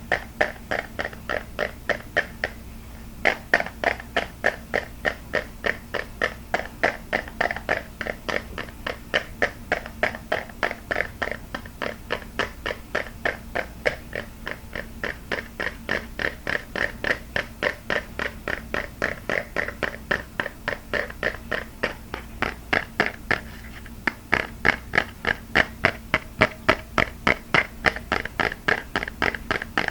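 Fast, even tapping, about three or four taps a second, with short breaks about three seconds in and again around twenty-three seconds.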